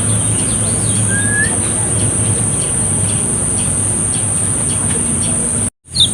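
A few faint, short bird calls, one a brief rising whistle about a second in, over a steady hiss, a low hum and a steady high-pitched whine. The sound cuts out for a moment near the end.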